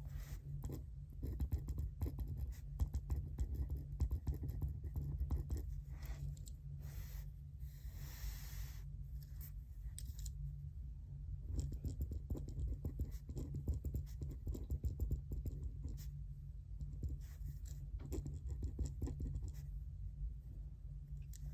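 Pen writing on paper in irregular scratchy strokes, with pauses, over a steady low hum; a brief rustle about eight seconds in.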